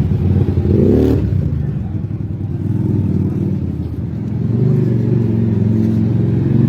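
Keeway Benda V252C's 250cc V-twin engine running through a custom 2-into-1 exhaust, blipped once about a second in, the pitch rising and falling quickly, then settling back to a steady idle.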